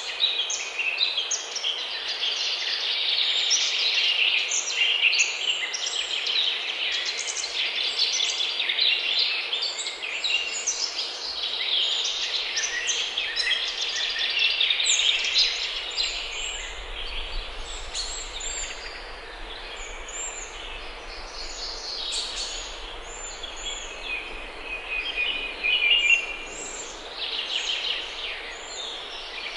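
Several songbirds singing at once, a dense run of overlapping chirps and trills over a steady hiss, with a faint low rumble coming in about halfway.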